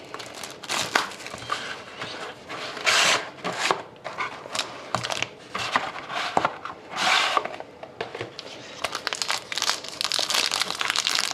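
Plastic wrapping crinkling and tearing in irregular bursts as a sealed hockey trading-card box and its pack are opened by hand, the rustling thickening near the end.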